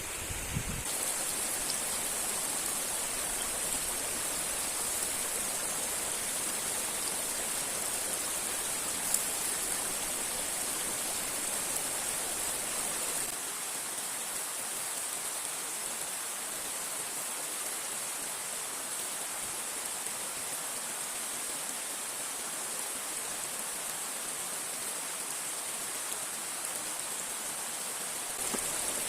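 River water rushing steadily over rocks, an even, unbroken hiss, with one brief sharp click about nine seconds in.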